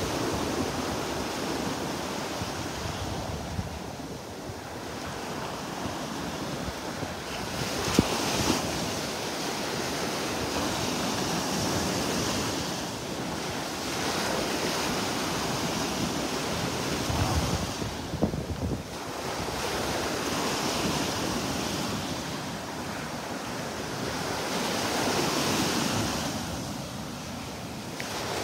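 Surf washing in and out in slow swells, with wind buffeting the microphone. There are a few brief knocks about eight seconds in and again around eighteen seconds.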